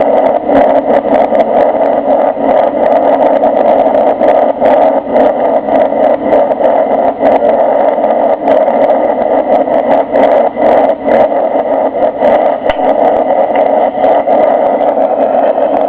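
Boeing 747-300 cabin noise during the landing: a loud, steady rush of jet engines and airflow, with frequent short rattles.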